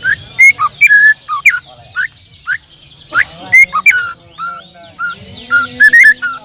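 Songbirds singing together: one bird close by gives loud, clear whistled notes that slide up and down, over a dense chorus of high, quick chirps from many other birds.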